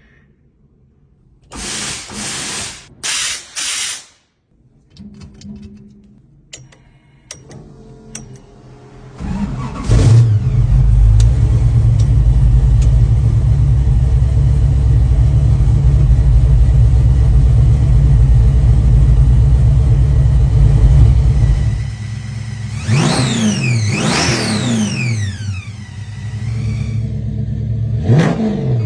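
Car engine: a few short bursts early on, then a loud, steady low rumble for about twelve seconds, followed by revs that rise and fall in pitch.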